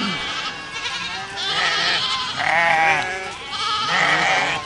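A herd of goats bleating: several calls overlap and follow one another, each with a wavering, quavering pitch.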